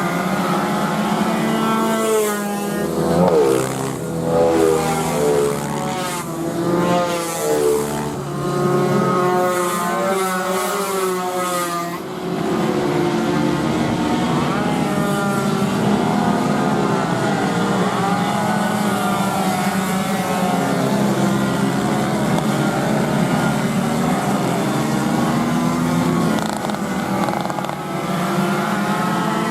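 Several racing motorcycle engines running at high revs, their pitch rising and falling with throttle and gear changes. The first dozen seconds are busy with overlapping engines, then one steadier engine note carries on.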